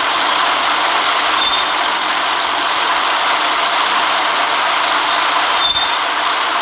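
City bus on the move: a loud, steady hiss of running noise, with two short sharp clicks about a second and a half in and near the end.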